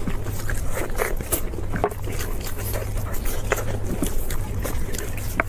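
Close-miked eating sounds: irregular crunching and smacking as food is chewed, with a steady low hum underneath.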